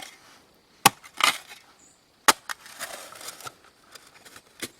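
Steel shovel digging into shale and stony dirt: two sharp strikes, each followed by a short scraping crunch as the blade pushes in, and a lighter knock near the end.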